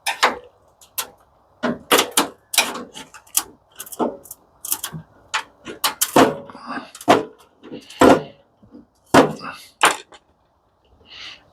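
Irregular knocks, clicks and clanks, about two a second, as parts of an industrial coffee machine are handled and worked loose during dismantling.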